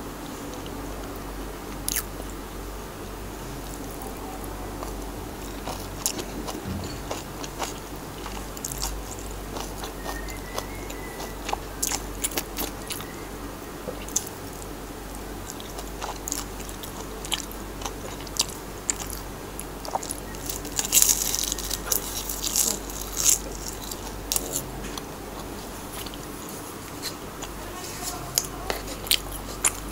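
Close-miked eating of kimchi: crisp crunching and chewing, many sharp crackling crunches in irregular clusters, densest about two-thirds of the way through.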